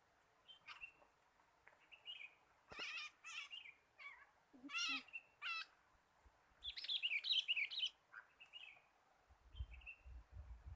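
Sooty-headed bulbuls (kutilang) calling: short high chirps, then several bursts of bubbly chatter, the longest and loudest about seven seconds in. A low rumble comes in near the end.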